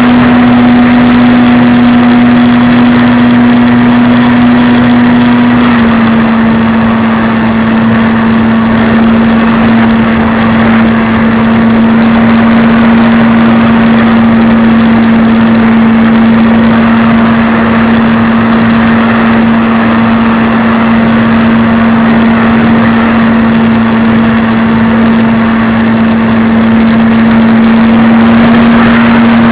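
Radio-controlled airplane's motor running steadily in flight, heard very close with rushing air noise; its pitch steps slightly lower about six seconds in as the throttle eases.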